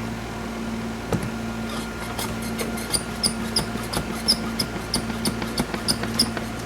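Inside a Fukui Railway 200-series railcar: a steady electrical hum. From about two seconds in it is joined by irregular clicks and short high squeaks from the running gear and body, several a second.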